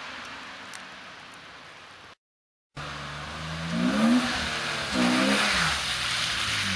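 BMW E36 325i's straight-six, fitted with a K&N intake, revving up and down several times, the pitch rising and falling with each blip. It starts faint and fading, drops out to silence for about half a second some two seconds in, then comes back louder with the revs.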